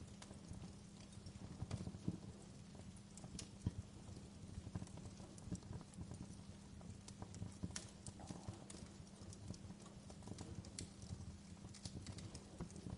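Wood fire crackling in a fireplace: irregular small pops and snaps over a low, steady rumble of flame, with a sharper pop a few seconds in.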